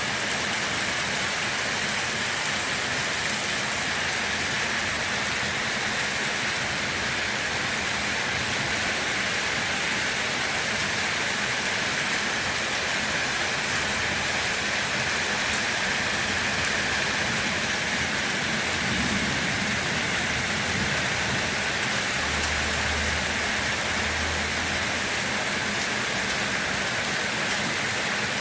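Steady, even rain falling, a dense hiss of drops with no let-up. A faint low rumble comes in briefly twice in the second half.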